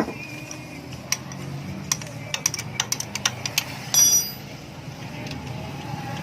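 Hand tools and metal engine parts clicking and clinking during engine teardown, a quick run of sharp clicks followed by a louder ringing clank about four seconds in.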